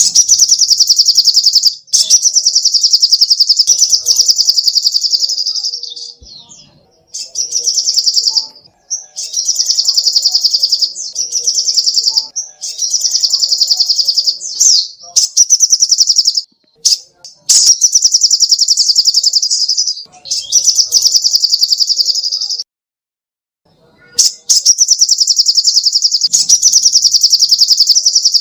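Little spiderhunter (sogok ontong) song: loud, rapid, high-pitched trilling chatter in repeated bursts of one to three seconds, broken by short pauses.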